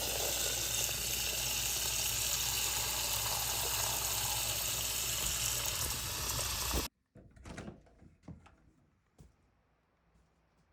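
A steady, loud rushing hiss that cuts off abruptly about seven seconds in, followed by a few light knocks and clicks.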